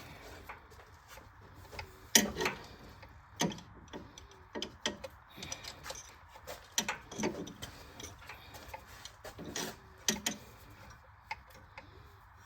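Irregular metallic clicks and clinks of a hand wrench being worked on a 9/16 bolt in a cramped spot, the tool knocking against the metal around it. The loudest clink comes about two seconds in.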